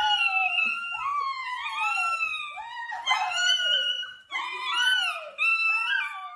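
A dog whining and yowling in a run of several long, high cries that rise and fall in pitch, one after another with short breaks.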